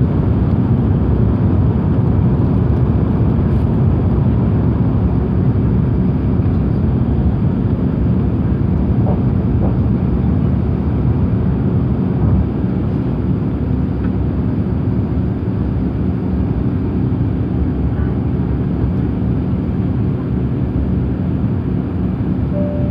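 Steady cabin noise inside an Airbus A350-900: a constant low rumble from the Rolls-Royce Trent XWB engines and the airflow over the fuselage.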